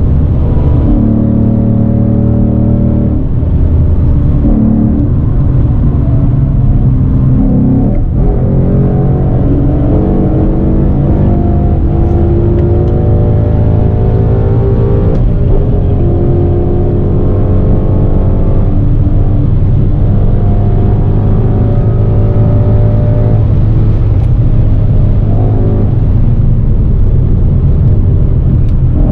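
Ford Mustang GT's 5.0 V8 with a Borla ATAK exhaust, heard from inside the cabin under hard acceleration. The revs climb and drop back through gear changes, with a shift about eight seconds in.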